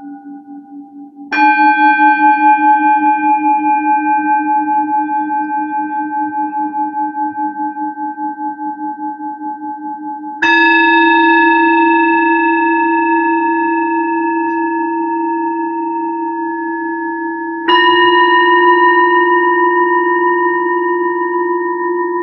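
Singing bowls struck three times, several seconds apart, each strike ringing on long and slowly fading with a gentle wavering hum. Each strike sits a little higher in pitch than the last, and a fainter earlier ring is dying away at the start.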